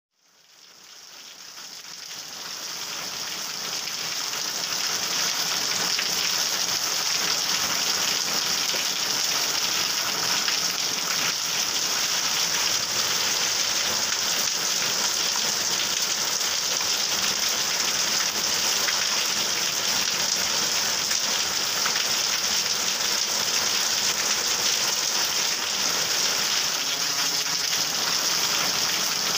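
Heavy rain pouring steadily onto a wet paved lane and yard, splashing on puddles; it fades in over the first few seconds.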